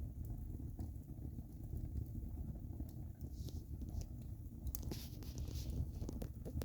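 A wood fire burning in a fireplace, crackling and popping with irregular sharp snaps over a steady low rumble of the flames. A brief hiss rises about three and a half seconds in, and again at about five seconds.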